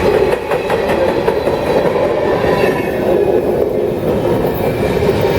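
CSX freight train rolling past: a steady, loud rumble of railcars, with a few wheel clacks over rail joints in the first second.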